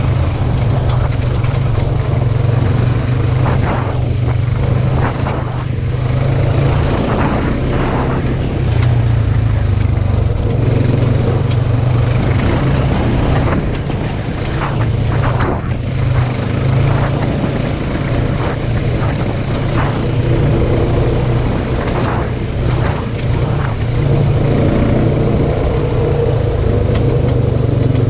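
Polaris RZR side-by-side engine running steadily at low speed, with scattered knocks and rattles.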